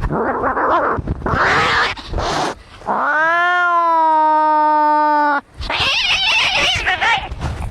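Angry cats fighting, with harsh, rasping yowls and hisses. About three seconds in they give way to one long caterwaul that rises in pitch, holds for about two seconds and cuts off. The harsh screeching then comes back.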